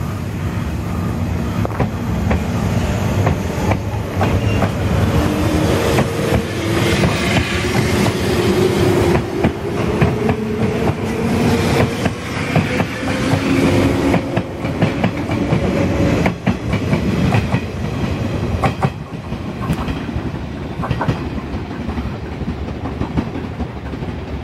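JNR 583 series electric multiple unit pulling out of a station and accelerating past: its wheels clatter over the rail joints, and the traction motors give a hum that climbs slowly in pitch. The sound fades a little near the end as the train draws away.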